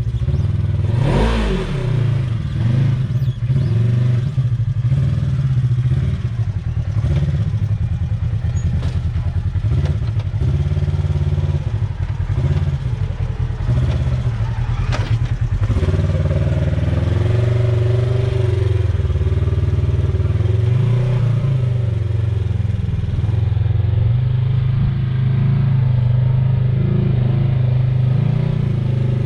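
Side-by-side UTV engine running and revving as it drives over off-road terrain, its pitch rising and falling with the throttle, with some clatter and a single sharp knock about halfway through.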